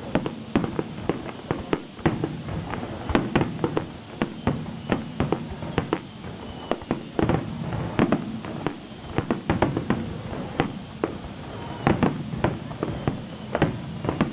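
Fireworks bursting: a dense, irregular run of sharp bangs and crackles, several a second, without a break.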